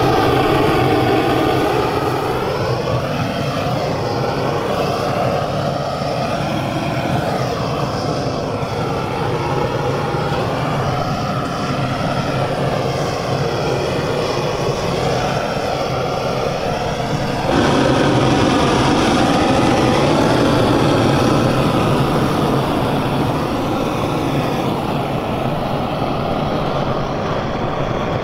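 A steady engine-like drone with a slowly wavering pitch, jumping suddenly louder about two-thirds of the way through.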